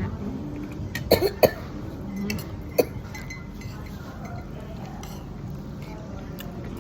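Cutlery clinking against a plate, three quick clinks about a second in and one more near three seconds, over a low background murmur.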